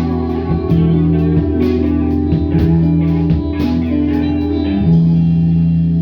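A rock band playing an instrumental passage led by electric guitar: chords struck about once a second, then from about five seconds in a chord left ringing.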